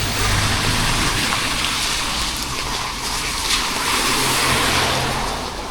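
Rain and wet-street traffic: a steady hiss that swells and eases a few times, over a low, even engine hum.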